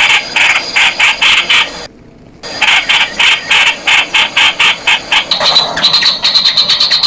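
Streak-eared bulbul calling: a rapid series of harsh, chattering notes, about five a second, with a brief pause about two seconds in before the series resumes.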